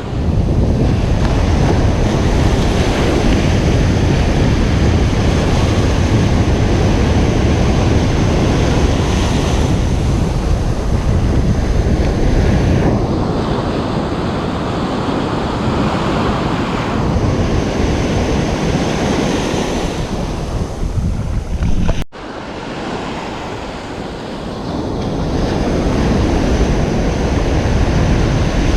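Ocean surf breaking and washing on a beach, a continuous rushing wash that swells and eases. About 22 seconds in the sound cuts out abruptly for an instant, then the surf builds up again.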